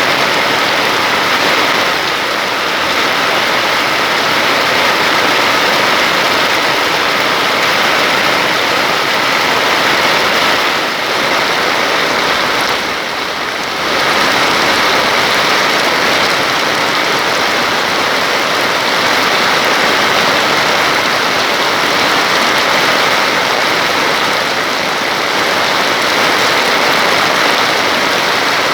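Heavy rain and rushing floodwater, a steady, even rush that eases briefly near the middle.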